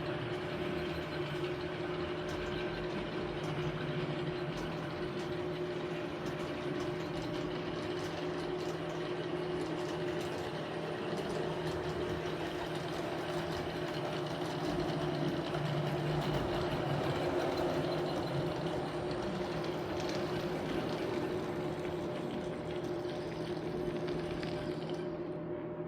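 HO-scale model train running along the track: a steady electric-motor hum and wheel rumble, swelling a little about two-thirds of the way through.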